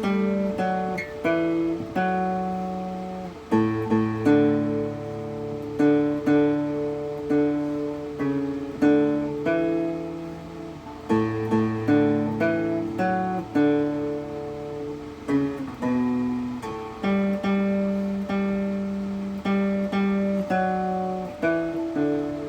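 Homemade coffee-can cigar box guitar, a fretted diatonic instrument with a piezo pickup inside, playing a slow melody of plucked notes and strummed chords, each one ringing and fading.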